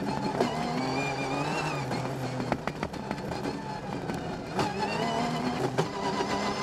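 Rally car engine heard from inside the cabin, its revs rising and falling as it is driven hard, with several sharp knocks over the engine noise.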